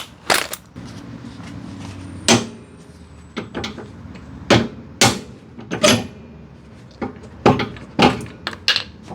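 Hand tools knocking and clanking against a car's metal suspension parts during arm removal: about a dozen sharp, separate knocks at uneven intervals.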